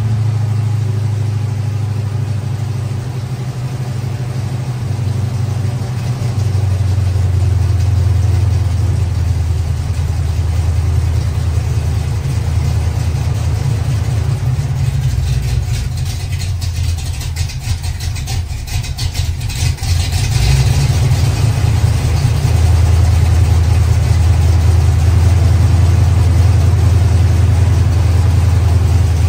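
Chevy Nova's carbureted V8 idling steadily on its first run with a new Quick Fuel Brawler carburetor, intake and valve covers. A little past halfway the idle sags for a few seconds, then picks up and runs louder.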